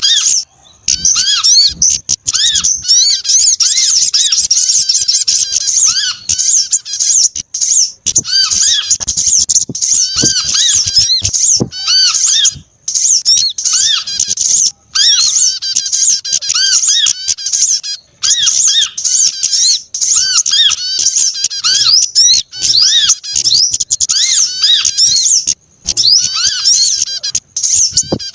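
Bird-lure recording of several small songbirds calling at once, such as spiderhunter and prinia: dense, shrill chirps and twitters repeated over and over, with a short break every few seconds.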